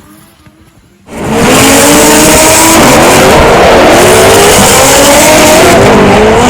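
BMW E30's turbocharged 4.4-litre V8 drifting, faint at first and then suddenly very loud about a second in, with revs rising and falling over tyre squeal.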